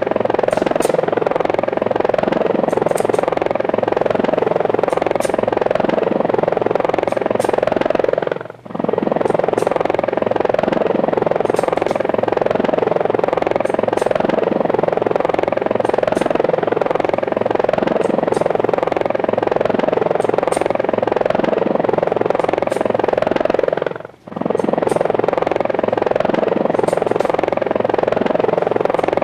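Small remote-control aircraft's motors and propellers whirring steadily, dropping out briefly twice.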